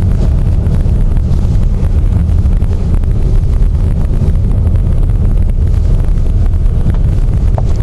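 Steady low rumble of a car driving on a snow-covered road, heard from inside the cabin: engine and road noise with wind buffeting the vehicle.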